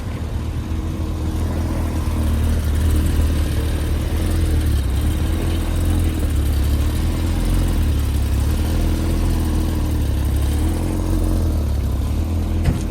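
Car engine running close by with a deep, steady rumble, its pitch wavering slightly. A short sharp click comes near the end.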